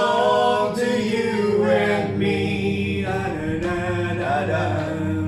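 Voices singing long held notes together in harmony over backing music, as a sing-along song draws to its close.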